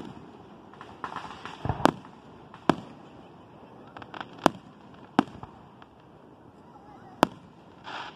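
Aerial fireworks shells bursting: about five sharp bangs, spaced unevenly a second or two apart.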